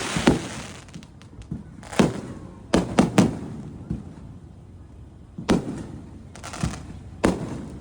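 Fireworks going off: about eight sharp bangs at uneven intervals, three of them in quick succession about three seconds in, each bang trailing off in an echo.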